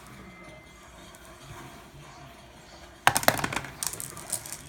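Potion Explosion game marbles clacking against each other in the dispenser, a rapid run of sharp clicks that starts about three seconds in after a quiet stretch.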